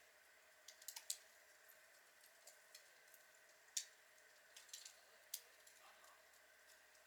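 Outdoor log fire crackling quietly: scattered sharp snaps and pops, with a cluster about a second in and the loudest single pop near the middle.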